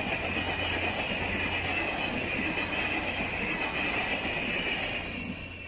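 Passenger coaches of a train rolling past at close range: a steady rolling noise of wheels on rail with a high, wavering note above it. It drops off about five seconds in as the coaches move away.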